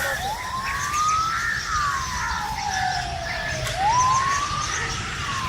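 A siren wailing, its pitch rising quickly and then falling slowly, twice, about once every three and a half seconds, over a steady low rumble.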